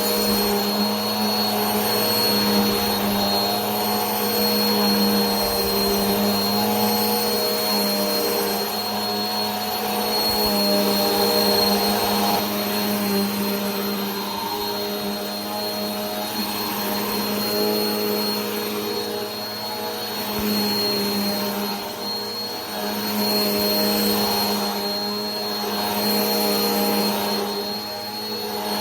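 Vacuum cleaner running steadily: a motor drone with a thin high whine over a hiss. Its pitch wavers slightly, and the level swells and eases a little every few seconds.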